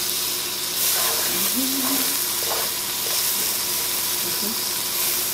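Butter and onions sizzling steadily in a hot pot as fresh butter melts into them, with light stirring from a silicone spatula.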